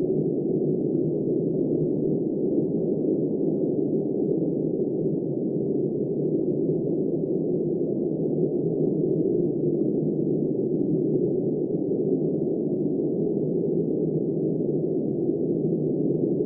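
Blizzard wind blowing steadily as a deep, muffled rush, with no hiss or whistle in it.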